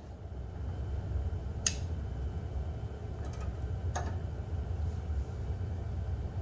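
Two sharp clinks of tools on metal over a steady low rumble.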